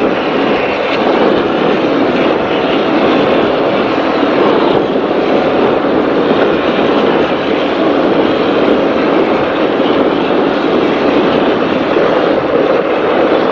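Race powerboat running at speed, heard onboard: its engines and the rush of wind and water make one loud, steady noise.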